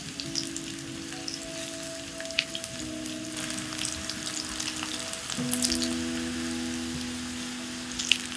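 Thin pumpkin slices frying in olive oil in a pan: a steady sizzle with scattered crackles and pops.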